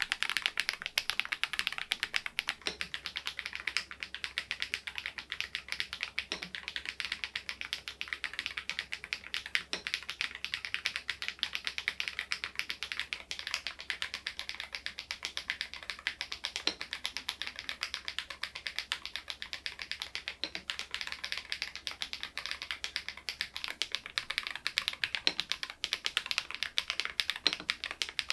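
Continuous fast typing on a SMURVE80 retro mechanical keyboard: a rapid, steady stream of key clicks from the key switches alone, with the solenoid module off.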